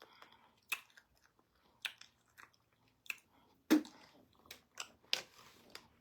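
Close-miked mukbang eating of pounded yam with ogbono soup: chewing with about ten irregular wet mouth smacks, the loudest a little past halfway.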